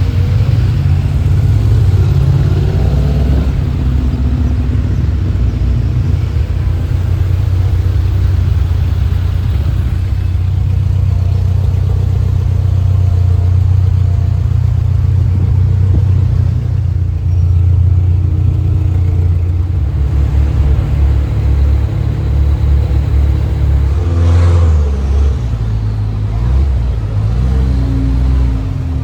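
Car engine running under way, a steady low drone with the revs rising and falling a few times.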